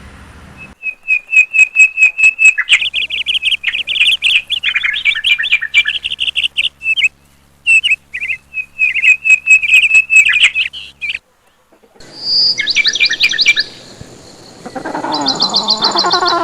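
Small birds chirping in rapid series of high notes, in several sections that start and stop abruptly. Near the end a different, lower call with sliding whistled notes comes in.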